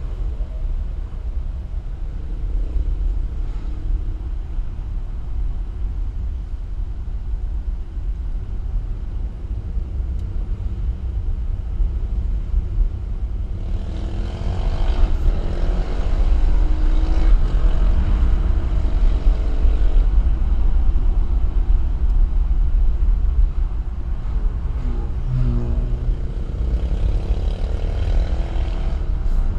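Vehicle engine running under a heavy, steady low rumble of road and wind noise. About halfway through the engine note grows louder, with its pitch rising and falling repeatedly as it revs up and eases off through the bends.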